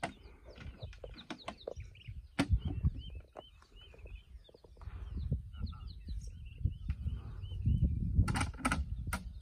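Wild birds chirping: runs of short, arched, repeated chirps over a low rumble, with scattered sharp clicks and knocks, the loudest about two and a half seconds in and near the end.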